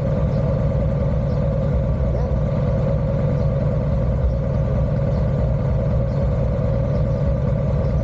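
Adventure motorcycle engine idling steadily with a low, even throb while the bike stands still.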